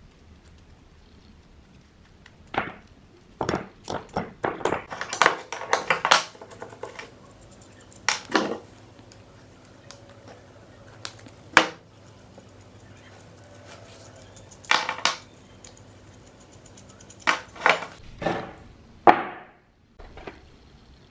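Metal parts of a rusty machine being handled, with irregular clinks and knocks and a quick run of them about four to six seconds in. A faint steady hum runs underneath and stops near the end.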